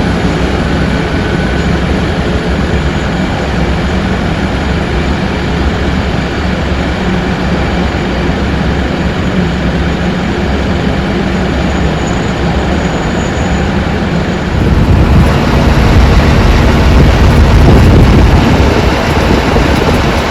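Aircraft engine noise: a loud, steady rumble with a faint whine over it, which turns abruptly louder and rougher about fifteen seconds in.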